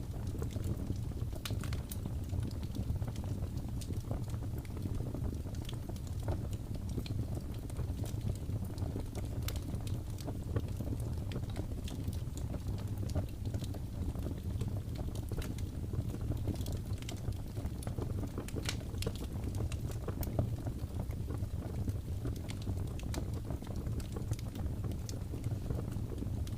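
Wood fire crackling in a fireplace: irregular sharp snaps and pops, some close together and some spaced out, over a steady low rumble.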